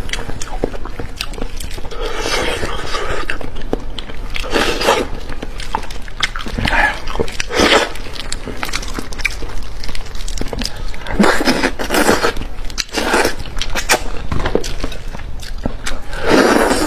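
Close-up eating sounds of a person biting and chewing on a fatty fish head: wet mouth noises and small clicks, coming in bouts every couple of seconds.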